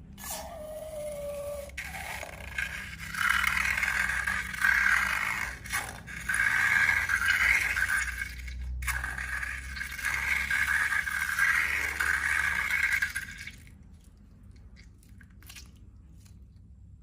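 Scraping and rattling from slime making, in uneven strokes that stop about thirteen seconds in. A short falling squeaky tone sounds at the very start.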